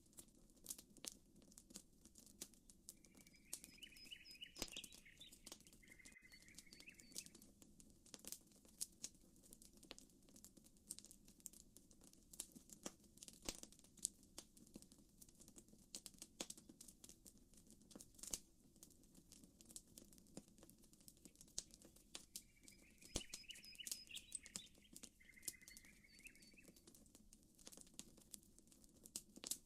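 Campfire crackling with frequent sharp pops and snaps, over a faint low steady wash of lapping water. A short bird song comes twice, a few seconds in and again about twenty seconds later.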